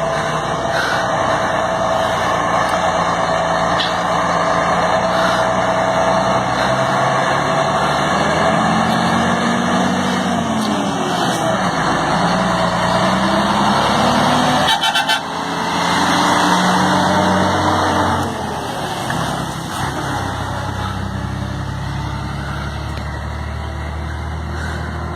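Scania 113 truck's diesel engine running under load, its pitch rising and falling several times as the revs change, with a sudden break about 15 s in and a steadier, lower run after about 18 s.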